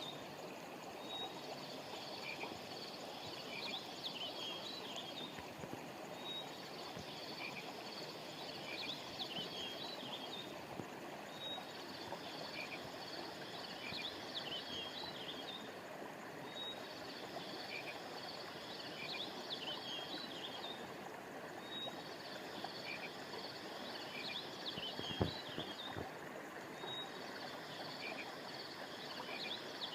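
Steady rush of a flowing river, over which a burst of high chirping calls repeats in the same pattern about every five seconds, like a loop. There is one soft low thump near the end.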